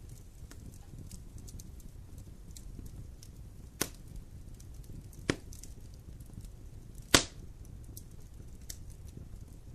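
Wood fire burning: a steady low rustle of flames with scattered faint crackles and three sharp pops of burning wood, the loudest about seven seconds in.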